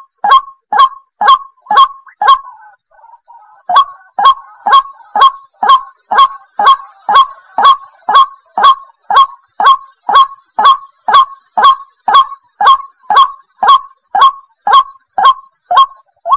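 White-breasted waterhen calling: a loud, very regular series of short, clipped notes, about two a second, breaking off briefly about two seconds in and then running on steadily.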